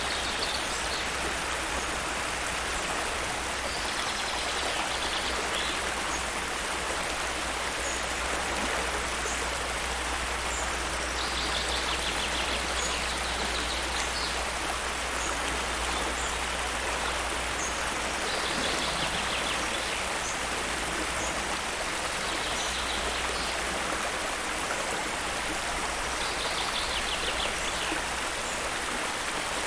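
Steady rush of flowing water, with a bird giving short trilled calls every several seconds and faint high chirps between them.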